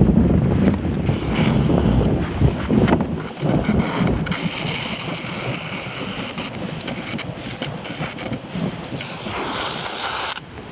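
Kayak hull sliding through heavy, wet snow with a steady rushing hiss, while wind buffets the microphone, strongest in the first few seconds.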